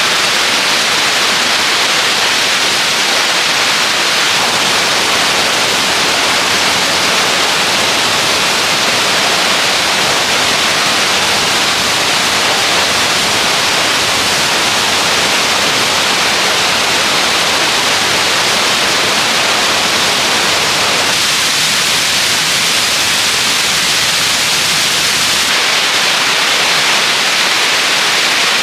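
Waterfall rushing: a loud, steady hiss of falling water that shifts slightly in tone twice in the second half.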